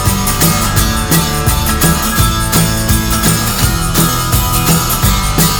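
Instrumental break of a rock song: guitar, bass and drums playing a steady beat with cymbals, no singing.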